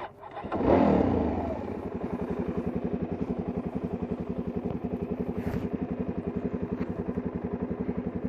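Suzuki DR-Z400S single-cylinder four-stroke engine starting up with a brief rev about half a second in, then settling into a steady, fast-thumping idle.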